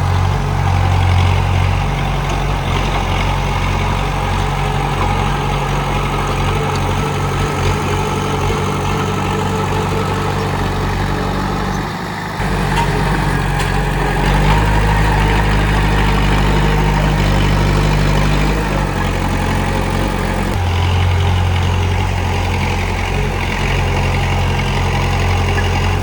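Komatsu D31P bulldozer's diesel engine running steadily with a low rumble, its tone shifting a few times and dipping briefly about halfway through.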